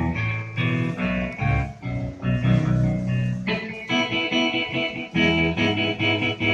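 Yamaha PSR-SX600 arranger keyboard playing a plucked-guitar voice over a bass line, then changing to long held organ-like chords about three and a half seconds in.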